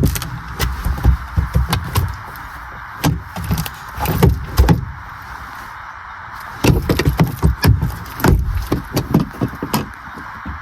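A series of irregular knocks, thumps and clatter, the first sharp one right at the start and thick clusters in the middle and later on, over a steady hiss.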